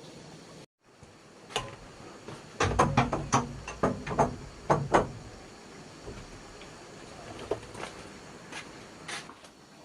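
A quick run of about a dozen sharp knocks and clatters over two or three seconds, then a few scattered clicks, over a steady background hiss.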